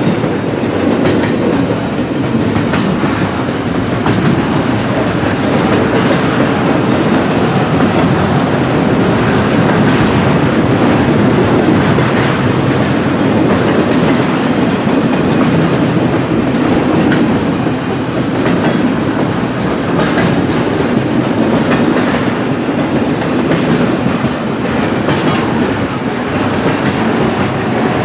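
Intermodal freight cars rolling past at speed: a steady rumble of steel wheels on rail with the clickety-clack of wheels over rail joints.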